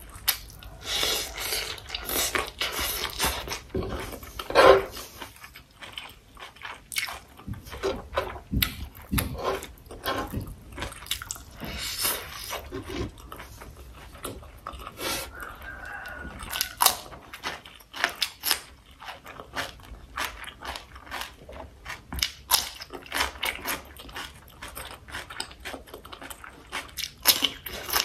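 A person chewing and eating sausage with rice and vegetables close to the microphone: a dense, irregular run of short wet clicks, smacks and crunches.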